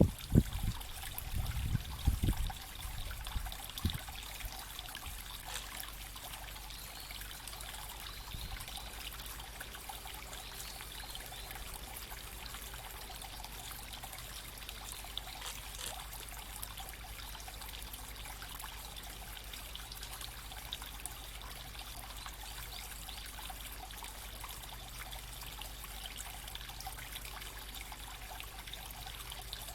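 Small creek babbling and trickling over stones, a steady, even rush of water. A few low thumps come in the first few seconds.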